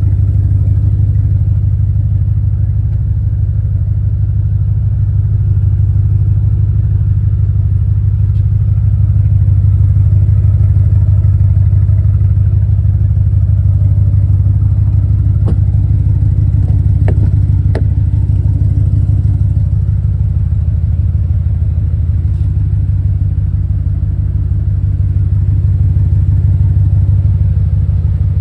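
Audi RS6's 4.0-litre twin-turbo V8 idling steadily, a deep even rumble. A few light clicks come just past the middle.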